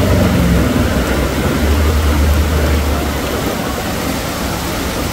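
Heavy rain pouring down onto a flooded street, a loud, steady rushing hiss. A low hum rises out of it for about a second and a half in the middle, then fades.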